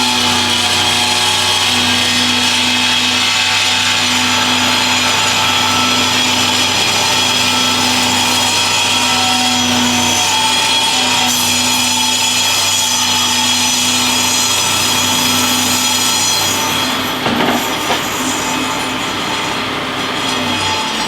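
Shopsmith multipurpose machine running as a table saw, its blade crosscutting a 1x12 board, with a steady motor hum under the cutting noise. The sound eases near the end, with a couple of knocks.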